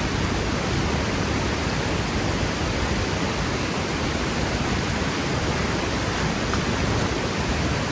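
Waterfall crashing into its plunge pool: a steady, dense rush of falling water, even throughout.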